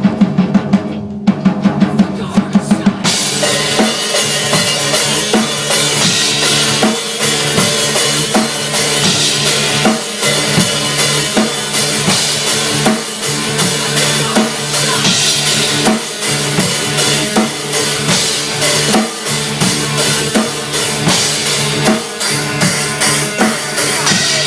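Drum kit played hard and fast, with kick, snare and cymbals. The playing gets fuller, with the cymbals crashing in, about three seconds in.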